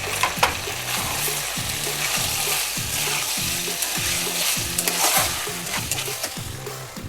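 Chicken sizzling in a pan of thick, reduced sauce while a spoon stirs it, with a couple of sharp clicks of the utensil against the pan near the start. Background music with low repeating notes plays underneath.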